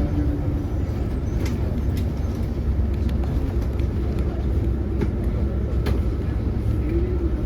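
Hyundai Universe Elegance CNG bus engine running while the bus is under way: a steady low drone with a few faint light rattles.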